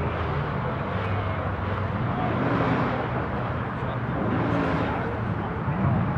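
Car engine running steadily, with its pitch briefly rising and falling twice.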